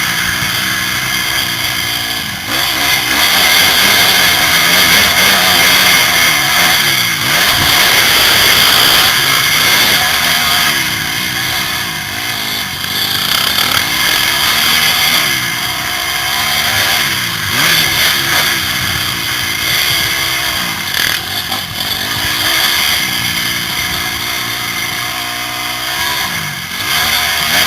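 Motocross bike engine revving hard and falling off again and again as it is ridden round the track, heard from a helmet camera with rushing air noise over it.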